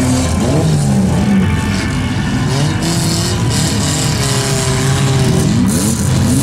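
Engines of several old stock cars running and revving as they drive across a grass field, their pitches rising and falling over one another, with one small hatchback passing close by.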